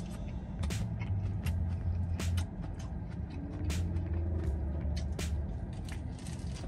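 A person chewing and biting into a loaded double cheeseburger with lettuce: a run of short wet mouth clicks and smacks, over a low steady hum.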